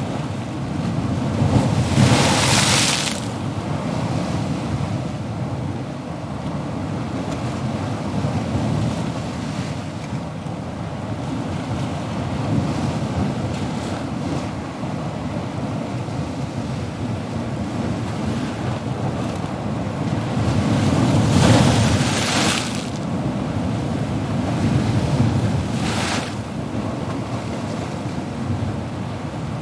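Ocean surf: a continuous wash of waves, with louder breaking waves about two seconds in, about two-thirds of the way through, and briefly a few seconds after that.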